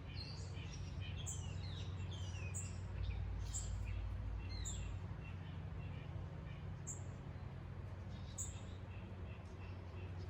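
Wild birds chirping and singing: quick sliding chirps through the first half, with short high calls repeating every second or so, over a steady low background rumble.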